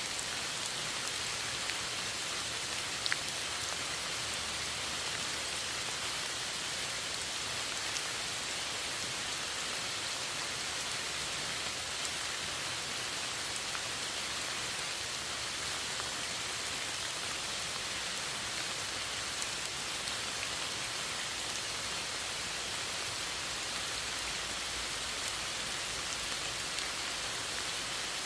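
Steady rain falling, an even hiss with occasional distinct drop ticks.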